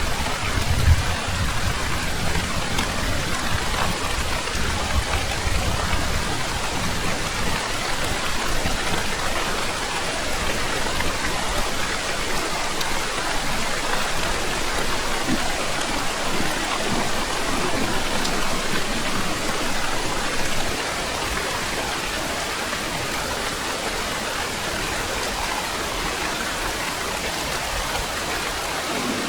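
Steady heavy rain falling, with a low rumble of thunder in the first few seconds. The rain eases slightly about two-thirds of the way through.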